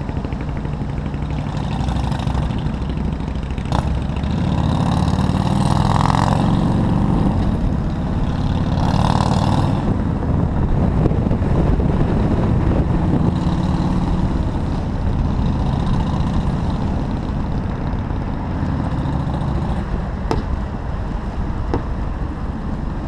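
Motorcycle engine running steadily while riding, under heavy low wind and road rumble, with two brief louder swells about six and nine seconds in.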